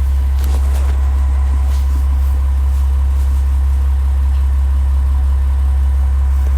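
KiHa 47 diesel railcar's engine idling with a steady low drone, heard from inside the carriage.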